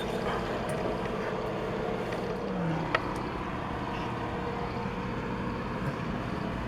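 A vehicle engine running steadily, with a single sharp click about three seconds in.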